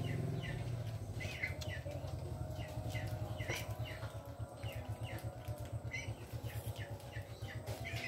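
Small birds chirping, with short high chirps two or three times a second over a low, fast pulsing.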